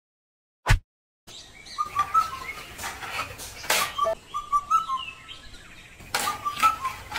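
Small birds chirping over and over in short warbling phrases, with a few sharp clacks among them. A single short thump comes just under a second in, before the chirping starts.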